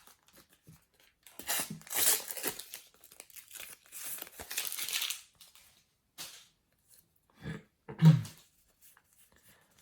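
A paper sticker packet being torn open and its wrapper crinkled, in two long rustling spells followed by a few short rustles. A brief low sound about eight seconds in is the loudest moment.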